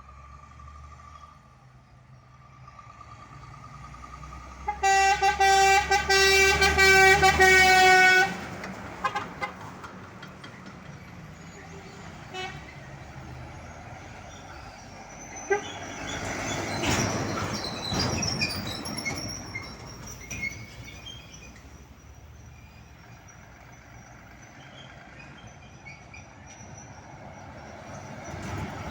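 Ship-style air horn on a Scania truck sounding one loud, steady blast of about three seconds, about five seconds in. A vehicle passes a few seconds later.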